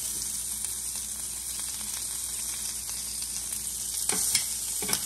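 Shrimp sizzling on a hot ridged grill pan, a steady frying hiss. A few sharp clicks about four seconds in, metal tongs touching the pan as the shrimp go down.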